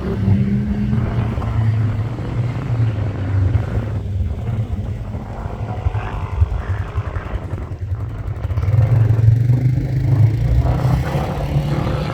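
Competition safari off-road vehicle's engine running hard, its note dropping back twice and building up again about three quarters of the way through, with a few sharp knocks and clatter.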